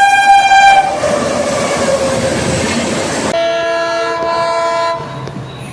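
Locomotive horn blast on an Indian express train, then the train rushing past at speed with a slowly falling tone. A second horn blast of about a second and a half follows, and the sound then drops to a quieter rumble.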